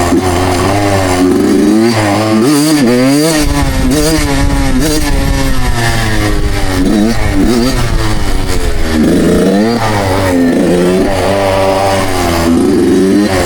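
Suzuki two-stroke dirt bike engine being ridden, revving up and easing off again and again, its pitch rising and falling with the throttle.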